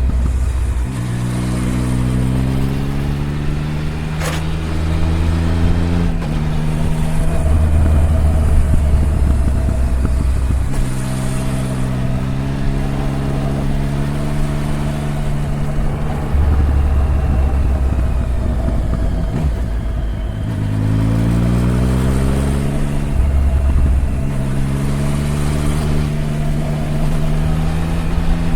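Triumph Tiger 1050's inline three-cylinder engine under way. The revs climb twice, and the pitch drops in steps several times as the gears change.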